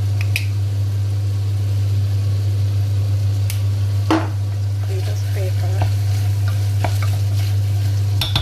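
A utensil stirring and scraping in a frying pan as peas and onions sizzle in butter, with a few clicks and one louder scrape about four seconds in, over a loud steady low hum.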